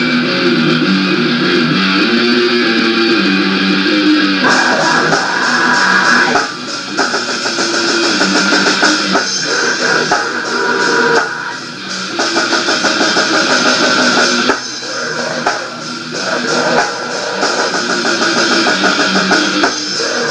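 Rock music: a guitar riff plays alone, then the drums and the rest of the band come in about four and a half seconds in and play on together.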